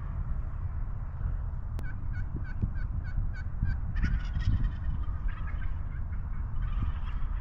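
Wild turkeys calling: a run of about eight short, evenly spaced calls, then a gobble about four seconds in and more calling near the end, over a steady low rumble.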